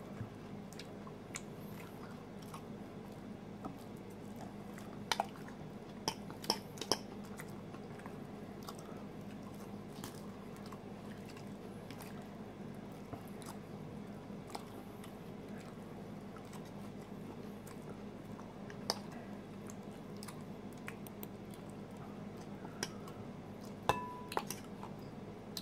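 A person quietly chewing salad with croutons, with a few sharp clicks of a metal fork against the bowl, over a steady low hum.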